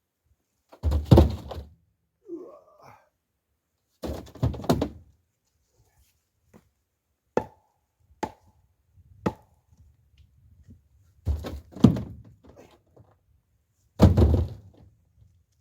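Firewood logs being struck or dropped: a series of heavy wooden thunks, several with a short clattering tail, and a few sharper, lighter knocks in the middle.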